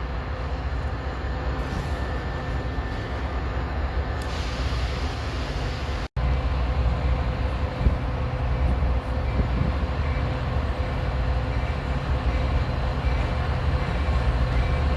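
Train moving on the rails: a steady low rumble with a faint steady hum over it, broken by a sudden split-second dropout about six seconds in.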